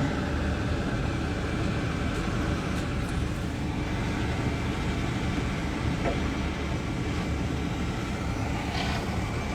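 Steady low rumble of idling heavy vehicle engines and street traffic, with no sudden events.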